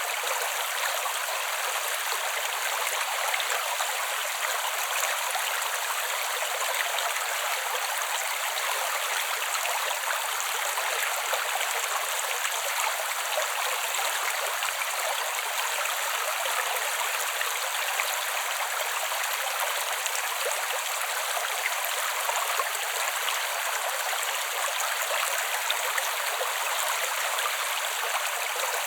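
Creek water flowing steadily over stones, an even, unbroken rush of running water with no low rumble.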